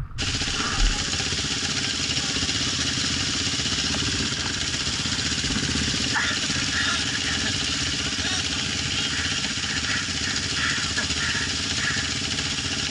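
Off-road motorcycle engine running steadily at low revs.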